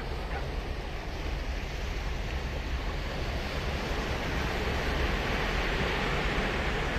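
Ocean surf breaking and washing ashore, swelling louder in the second half as a wave comes in, over a low wind rumble on the microphone.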